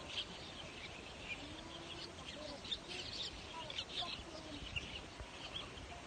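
Birds chirping: many short, high calls overlapping throughout, over a steady background hiss.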